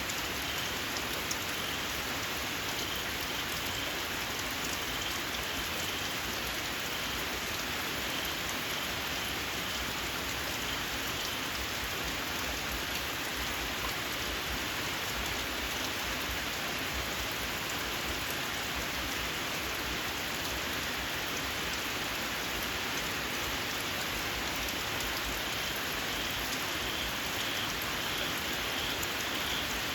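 Steady rain falling on fields, with small frogs giving a shrill, squealing pulsed call in the first third and again, louder, near the end.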